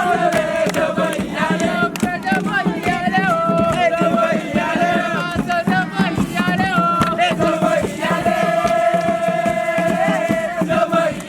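A group of campers singing a chant together in chorus, holding long notes, with sharp clicks and knocks in among the voices.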